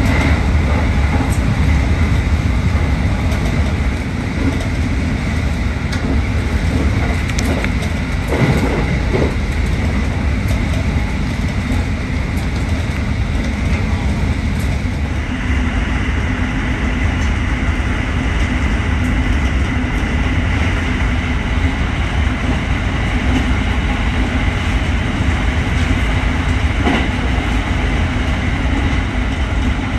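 JR Freight train passing at speed: a steady heavy rumble of rolling wagons, with a few sharp clacks of wheels over rail joints. About halfway through the sound turns duller as the high hiss drops away.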